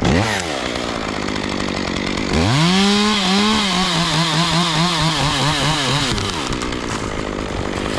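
Chainsaw revving and then cutting through a limb, its engine pitch held high and wavering under load for about four seconds before dropping back toward idle.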